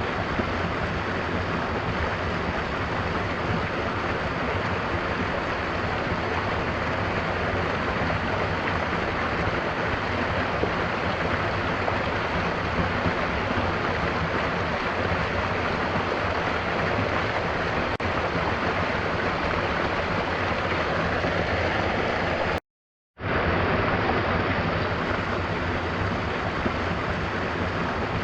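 Steady rush of falling water from a waterfall, with rain. About three-quarters of the way through, the sound cuts out completely for about half a second, then resumes as before.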